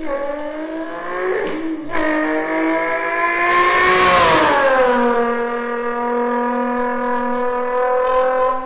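A person imitating a turbocharged sports car engine with their voice. The pitch climbs in steps like gear changes, a hissing burst about four seconds in stands for the turbo's blow-off as the pitch drops, and then a steady lower drone holds.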